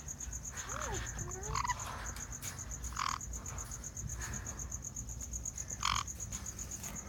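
A cricket chirping in a rapid, even, high-pitched pulse, with a short croaking call about every three seconds and a few gliding whistle-like calls in the first two seconds.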